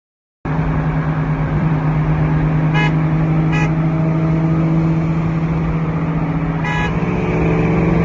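Ford Mustang GT V8 engine running at a steady pitch, with three short high beeps about three, three and a half and seven seconds in; the engine note starts rising near the end as it picks up revs. The sound starts abruptly about half a second in.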